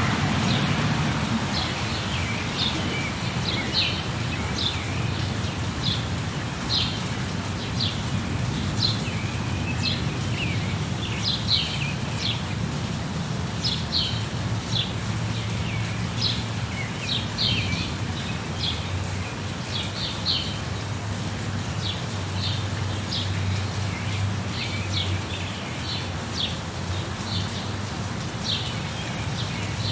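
Small birds chirping throughout in short, high repeated calls, a few each second, over a steady low rumbling background of rain-and-weather ambience.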